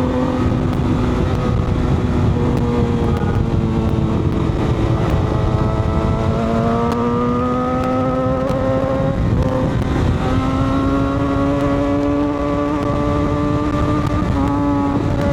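Motorcycle engine running under way at a steady, slowly climbing pitch, with a few brief dips, over steady wind and road rush.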